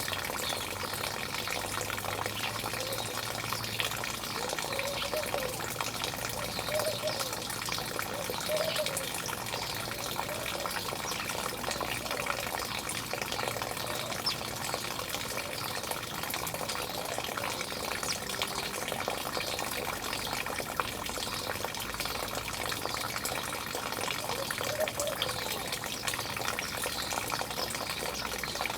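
Steady rush of running water, like a fountain or small waterfall, with birds calling and chirping briefly over it now and then.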